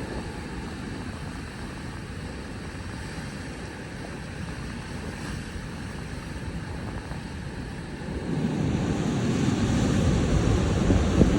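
Wind buffeting the microphone over a steady outdoor rush, the low rumble growing louder from about eight seconds in.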